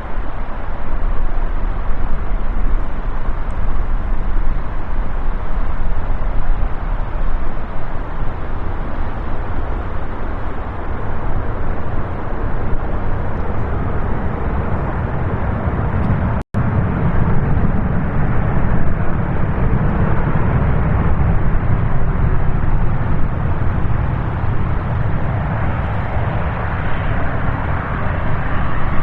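Jet engine noise from an arriving Boeing 787 Dreamliner: a loud, steady rumble that drops out for an instant a little past halfway, then comes back with a heavier low rumble and a rising rush of higher sound near the end.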